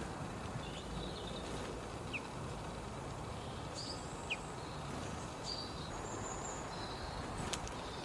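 Small garden birds calling: scattered short, high chirps and two quick upward-sweeping notes, faint over a steady low background rumble.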